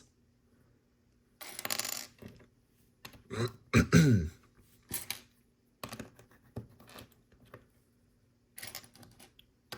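LEGO plastic bricks clattering and clicking as loose pieces are sorted through and picked out, in two busy rattles about one and a half and three to four seconds in, then scattered lighter clicks. A short falling murmur comes around four seconds in.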